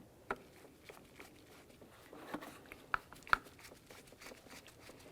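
Scattered light clicks and taps of a screw and screwdriver against plastic as a screw is set in place and turned into a car door's lock cover, with a few sharper clicks among fainter ticks.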